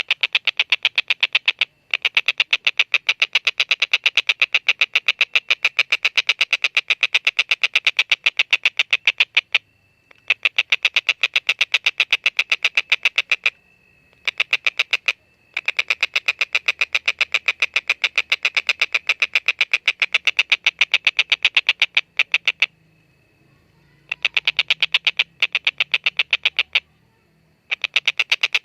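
A tengkek buto kingfisher calling its long rapid chatter, a fast run of harsh repeated 'kek' notes, about ten a second. The calls come in long bouts broken by short pauses: one near two seconds in, a longer one around ten seconds, and several in the last third.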